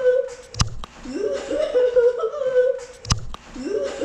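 A short comic laughing sound played in a loop: a sharp knock, then a voice that rises in pitch and wavers in a giggling laugh, repeating about every two and a half seconds. The knock comes twice, about half a second in and near the end.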